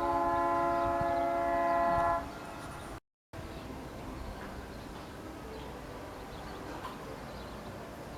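A loud horn blast of several steady tones sounding together, held for about two seconds and then stopping abruptly. Faint outdoor background with a few faint bird chirps follows, and the sound cuts out completely for a moment about three seconds in.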